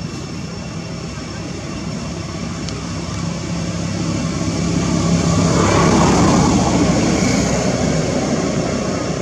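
A motor engine droning as it passes by, growing louder to a peak about six seconds in, then fading.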